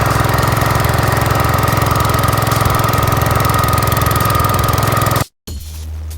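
Gravely tractor engine running steadily while blowing snow, cut off abruptly about five seconds in.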